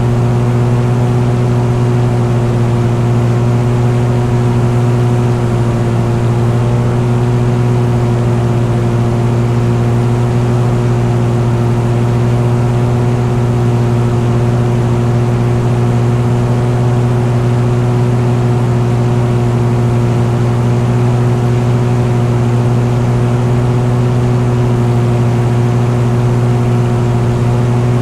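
An engine running at a constant speed, a loud steady drone with a fixed low pitch and overtones that holds unchanged throughout.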